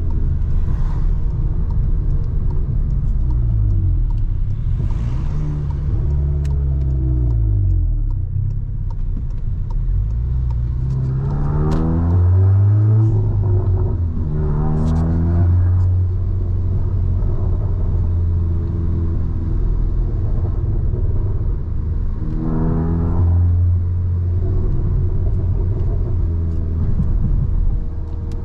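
Volkswagen Golf 7R's turbocharged 2.0-litre four-cylinder engine driving along with a steady low drone, its pitch rising and falling several times as it accelerates and eases off. The clearest climbs come about eleven, fourteen and twenty-two seconds in.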